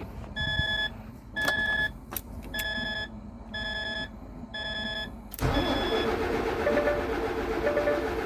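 Cab warning beeper sounding about once a second, then about five seconds in the DAF CF 75's starter motor cranking the diesel engine over, with the beeps going on softer underneath. It turns over but does not catch, the no-start fault.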